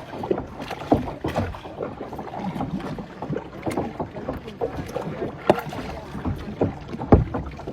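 Kayak paddles dipping and splashing in the water with irregular strokes, and a few sharp knocks, the loudest near the end.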